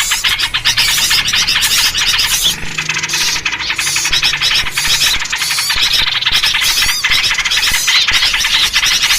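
Dense, continuous chatter of many small birds calling at once in an agitated, noisy mix, dominated by sooty-headed bulbul (trucuk) calls. This kind of 'noisy birds' recording is played to lure wild birds in.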